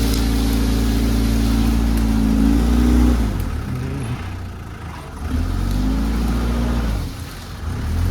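Tractor engine running steadily, then its speed drops about three seconds in and it comes back up. It dips once more near the end before recovering.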